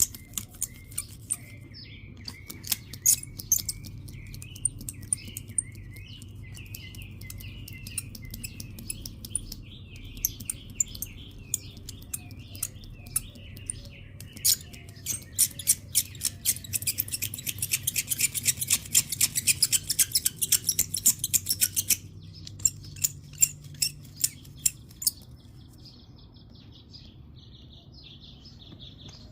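Small birds chirping repeatedly, mixed with many sharp clicks and ticks that crowd into a rapid clattering for several seconds past the middle, over a faint low hum.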